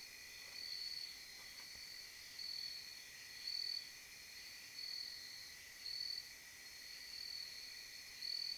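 A chorus of insects, crickets by their sound, chirring steadily with a higher, louder pulse swelling about once a second.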